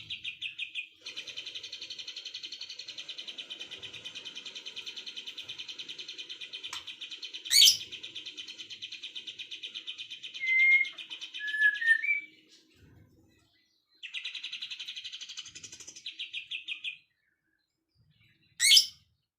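Songbirds singing: a long, rapid, buzzing trill that stops about twelve seconds in and starts again briefly later, with a few short whistled notes and two sharp, loud, high calls.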